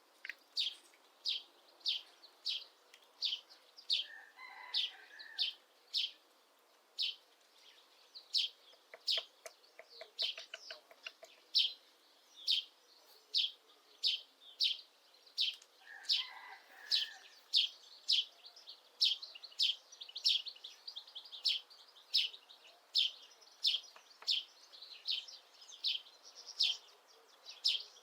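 A bird chirping steadily, short high chirps repeated two to three times a second. About nine seconds in comes a quick run of light taps, the Syrian woodpecker chiselling at the wood of the nest hole.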